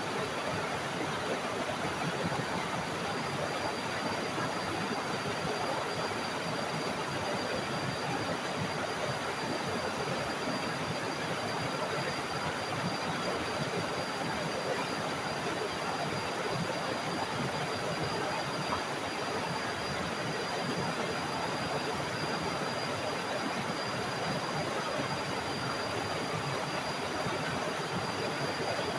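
Small forest waterfall: water falling and rushing in a steady, unbroken stream, with a thin steady high tone above it.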